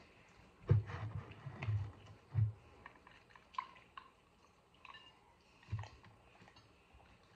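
Close-up chewing of a hard-shell taco, with wet mouth clicks and a few soft low thuds, the strongest in the first two and a half seconds and another near six seconds.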